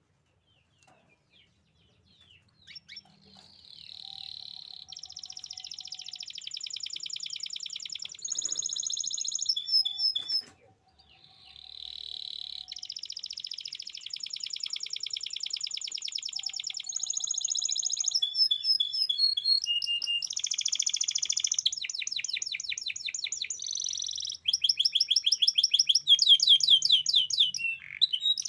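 Domestic canary singing: long, fast rolls and trills of high repeated notes. Its song starts a couple of seconds in and breaks off briefly about ten seconds in before carrying on, growing louder.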